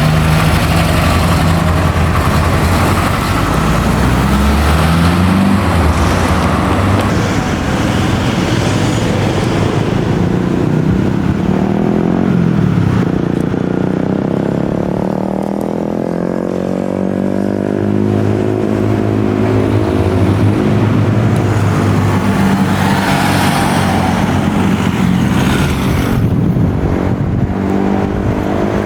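Classic and historic car engines running, several of them revving and driving off, their pitch rising and falling again and again.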